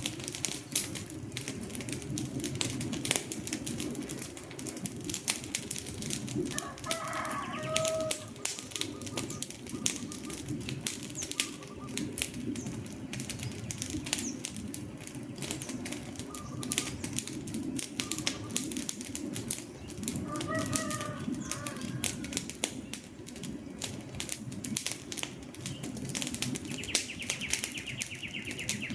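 Wood fire crackling, with many sharp pops and snaps over a low steady rush of flame. A few short bird calls come in about seven seconds in, again around twenty seconds, and near the end.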